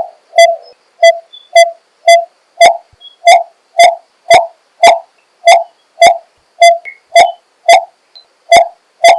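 Coppersmith barbet giving its repeated hollow 'tuk' call, about two notes a second in a steady, even series, each note with a sharp clicky start.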